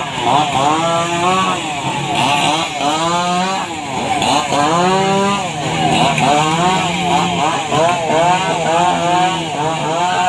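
A small engine revving up and down over and over, its pitch climbing and falling about every one and a half to two seconds.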